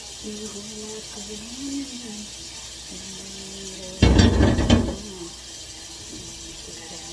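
Dishes clattering in a sink: one loud rattling clatter about four seconds in, lasting about a second.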